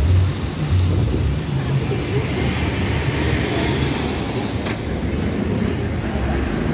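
Vehicle and road noise, a steady low rumble.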